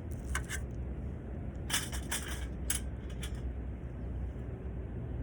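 Light clinks and rattles of small camping gear being handled, in a few short clusters around the first half second and again from about two to three and a half seconds in, over a steady low outdoor rumble.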